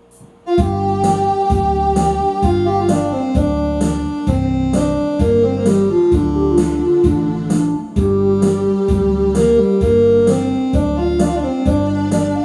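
Instrumental intro of a Korean trot backing track: an electronic keyboard playing a held, organ-like melody over a steady bass-and-drum beat, starting abruptly about half a second in.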